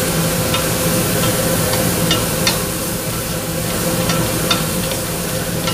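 Diced onion and garlic sizzling in melted butter in a stainless steel pot, stirred with a wooden spoon that knocks against the pot several times.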